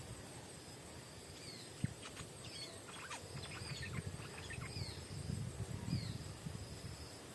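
Stripe-throated bulbul calling: short high whistles that slur downward, repeated about once a second, with a flurry of quick sharp notes in the middle. A steady high insect drone runs underneath.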